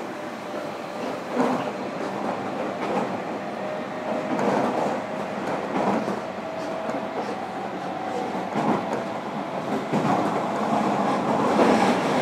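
Interior running noise of a JR Kyushu 305 series electric train in motion, heard in motor car MoHa 305-103, with the wheels knocking over rail joints a few times. It grows a little louder near the end.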